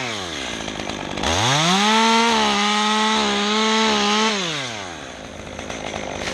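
Two-stroke chainsaw idling, then revved up to full throttle about a second in and held there for about three seconds before the engine speed falls back to idle.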